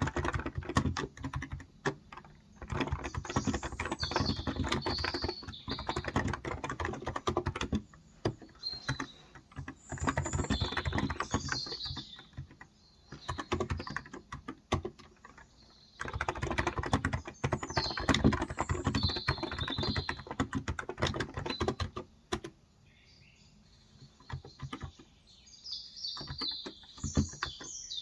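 Typing on a Cox Endeavor electro-capacitive (Topre-style) 35 g tenkeyless keyboard, fast runs of soft keystrokes broken by short pauses, thinning to a few strokes near the end. Small birds chirp in the background every few seconds.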